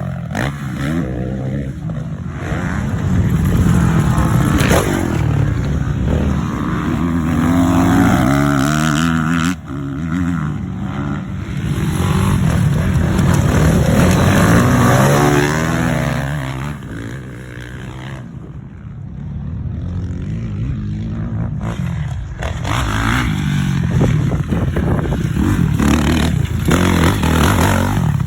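Motocross dirt bike engine running and revving, its pitch rising and falling again and again as the throttle is opened and closed. It eases off and goes quieter about two-thirds of the way through, then revs up again.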